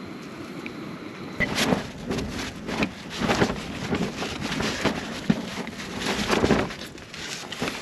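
Wind gusting against the microphone: an uneven low rumble and buffeting that picks up about a second and a half in and rises and falls.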